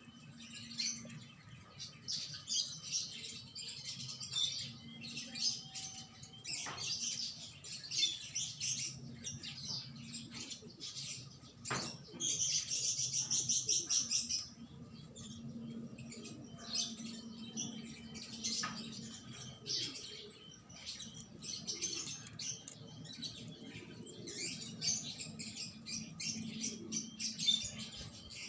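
Small birds chirping and twittering, with a denser trill about twelve seconds in, and a few sharp knocks.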